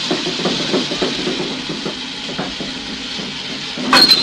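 Steam locomotive sound effect: a steady hiss of steam with soft, irregular chuffs as the engine creeps forward slowly. Near the end come a couple of sharp metallic clanks with a ringing note, the engine's buffers meeting the coaches.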